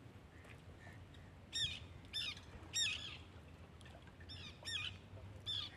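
A bird calling nearby: six short, hooked calls in two runs of three, each about half a second apart, over a faint low background rumble.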